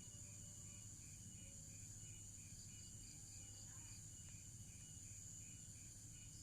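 Near silence with faint, rhythmic insect chirping, a few short chirps a second, over a steady high hiss.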